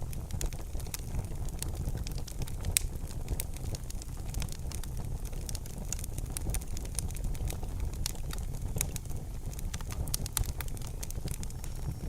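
Wood fire in a fireplace crackling, with frequent sharp irregular pops and snaps over a steady low rumble of the burning.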